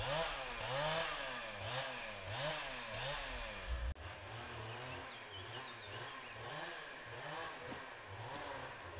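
Chainsaw engine revving up and down over and over, about twice a second, with an abrupt break about four seconds in.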